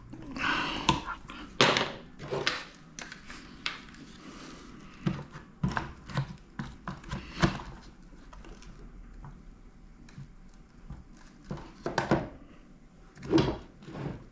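Irregular clicks, taps and knocks of parts and tools being handled on a workbench while an RC monster truck is taken apart, with a few louder knocks near the end.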